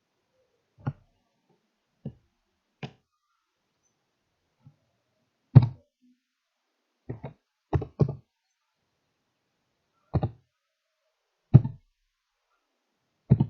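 Computer keyboard keys tapped one at a time, about a dozen short, irregularly spaced clicks and knocks, as when a password is typed slowly.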